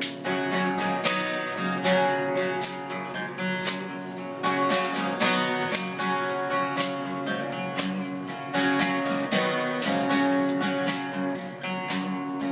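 Live acoustic guitar strummed in a steady rhythm, playing the instrumental intro of a rock song before the vocals come in.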